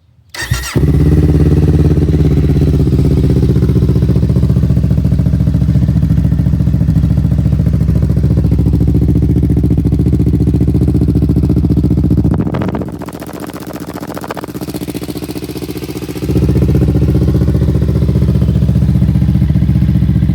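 Kawasaki Ninja 500's parallel-twin engine, breathing through a Yoshimura AT2 full exhaust system, cold-started: it cranks briefly and catches within the first second, then idles loud and steady. About twelve and a half seconds in the sound drops to a quieter, thinner level for a few seconds, then comes back at full strength.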